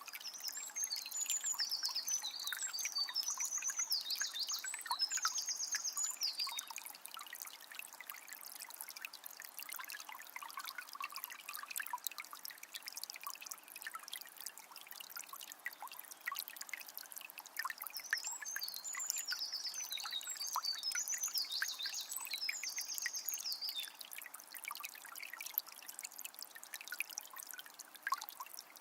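Water of a small spring trickling and splashing steadily. A songbird sings a high, rapid warbling phrase about six seconds long twice: once near the start, and again about eighteen seconds in.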